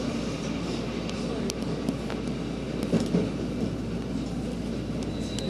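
Interior running noise of a JR West 223 series 2000-subseries electric train: a steady low rumble with a few sharp clicks around the middle and a thin high tone coming in near the end.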